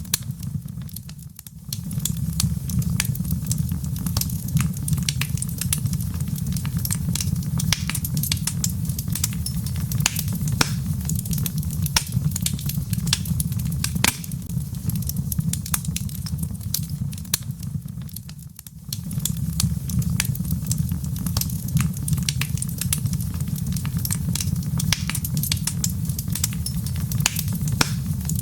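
Log fire crackling, with frequent irregular pops and snaps over a steady low rumble of burning wood. The sound dips briefly twice, about a second in and again around 18 seconds.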